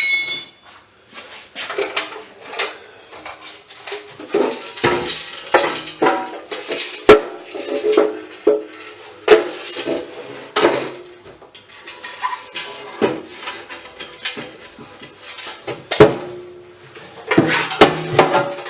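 Metal scrap parts, including a die-cast metal box, clanking and rattling as they are handled and taken apart, with repeated sharp knocks that ring briefly.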